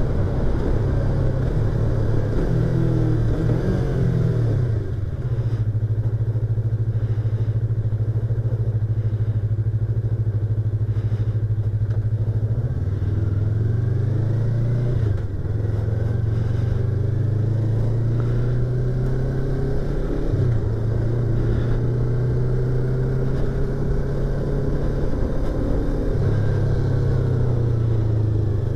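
Yamaha YZF-R25's 249 cc parallel-twin engine and exhaust heard from inside the rider's helmet while riding. It holds a mostly steady note, and the pitch rises and falls at several points: around 3 to 5 seconds in, again around 13 to 16 seconds, and near the end.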